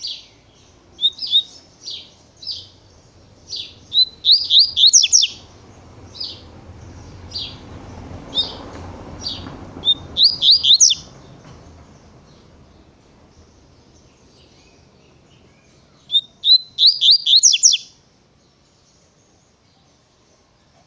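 Double-collared seedeater (coleiro) singing its 'tui-tui' song: spaced single sharp notes, broken three times by a quick run of rapid, high notes.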